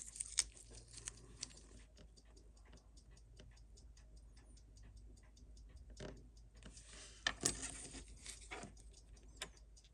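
Seiko 6105 automatic watch movement ticking steadily at about six beats a second. A few louder clicks and a brief scrape from tools on the watch come about six and seven and a half seconds in.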